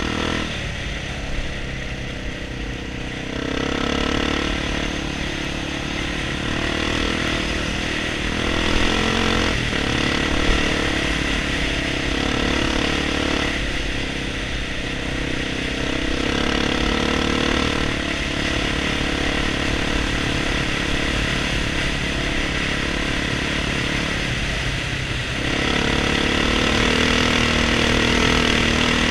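1997 Honda XR400's air-cooled single-cylinder four-stroke engine pulling the bike along a sandy trail, the revs dropping and picking up again several times as the throttle is rolled off and back on, loudest near the end. A few short knocks come through along the way.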